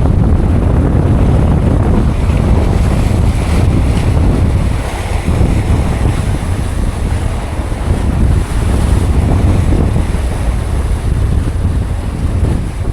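Strong wind buffeting the microphone in a loud, steady rumble, with the sea's surf beneath it.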